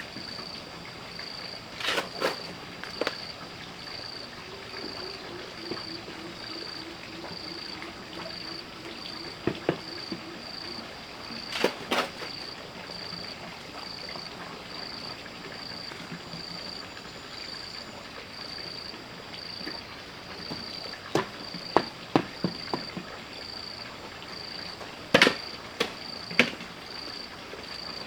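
An insect chirping steadily in a high, even pulse, about two chirps a second. Scattered sharp knocks break in now and then, a few in quick clusters, the loudest about three quarters of the way through.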